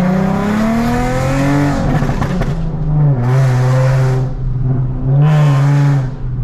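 Nissan 370Z's 3.7-litre V6 through a straight-piped exhaust (muffler and resonator deleted) accelerating, its pitch rising for about two seconds. Then comes a burst of crackling pops as the throttle lifts, followed by two shorter pulls with dips between them.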